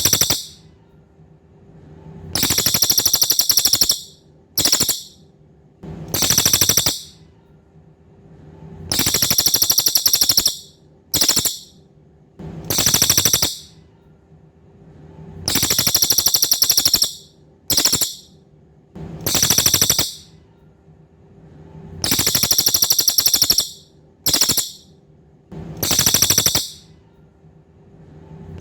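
Cililin songbird singing: loud, high, buzzy trills lasting about one to two seconds each, with a few shorter ones, repeated every two to three seconds with short pauses between.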